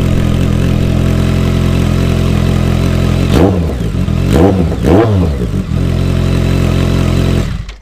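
BMW K1200R Sport's inline four-cylinder engine idling steadily through an aftermarket 8-inch Dekevic stainless shorty muffler, with three quick throttle blips about halfway through, each rising and falling. The exhaust has a slight growl. The sound cuts off abruptly near the end.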